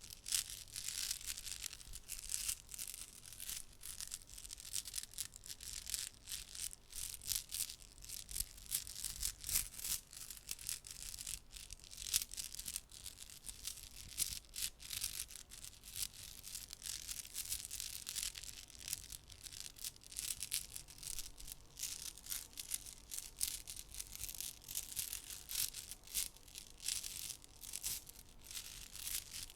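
Small decorative glass stones being handled and rubbed together in the hands: a dense, continuous run of soft, high clicks and clinks.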